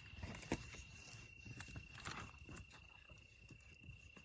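Faint night ambience: one insect's steady, high-pitched trill runs throughout, with scattered small clicks and crackles, one sharper click about half a second in.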